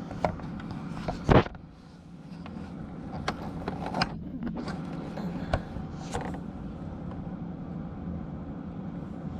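Scattered knocks and clicks of things being handled, the loudest about a second in, over a steady low hum.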